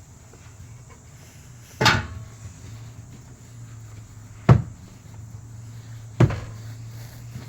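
Three sharp knocks, a couple of seconds apart, over a low steady hum.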